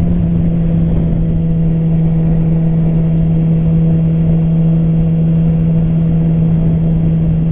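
Yamaha R6 inline-four sport-bike engine running at a steady cruising pitch while riding, over a constant rush of wind and road noise.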